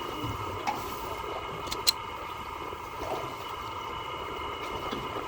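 Steady drone of a boat's engine running, with a few sharp clicks about two seconds in.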